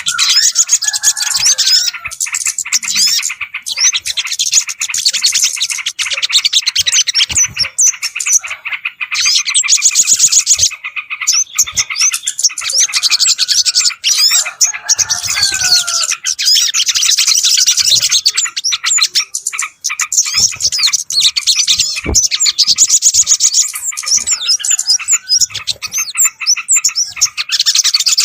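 Bird-lure recording of many small birds chirping and twittering at once: a loud, unbroken chorus of quick, high chirps and trills.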